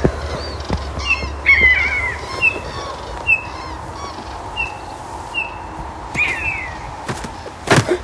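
Birds chirping: short high chirps repeating about once a second, with two longer falling calls, one about a second and a half in and one near six seconds. A few sharp knocks just before the end are the loudest sounds.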